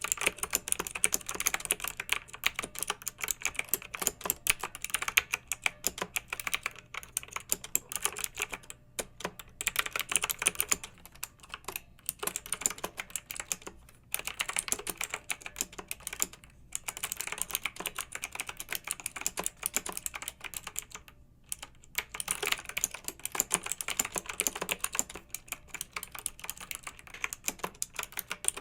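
Clicky mechanical keyboard typed on in fast runs of keystrokes, with several short pauses between runs.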